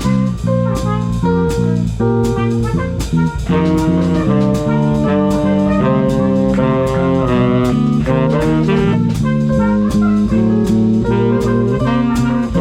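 Swing band playing jazz: horns holding chords over a drum kit keeping a steady beat.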